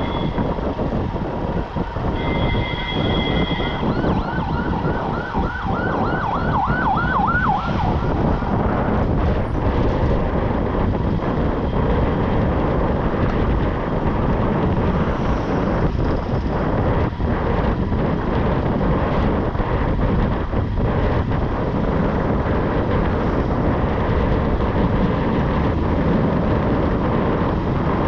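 Steady wind and road rush from a motorbike riding through town traffic. In the first few seconds there are short, high, steady horn tones, then a fast warbling tone of about four pitch sweeps a second that lasts for about three seconds.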